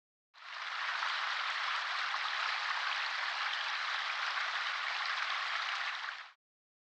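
A steady, even hiss that fades in shortly after the start, holds level for about six seconds, then cuts off.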